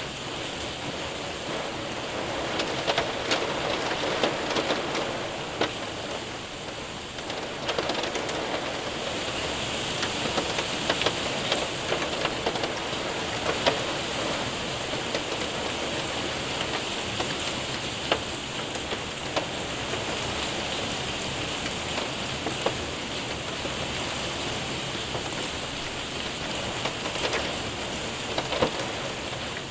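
Rain and hail hitting a window and roof: a steady hiss of rain with frequent sharp ticks of hailstones striking.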